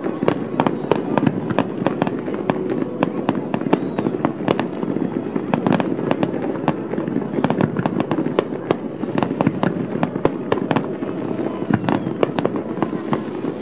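Aerial fireworks shells bursting in a dense, continuous string of bangs and crackles, several a second.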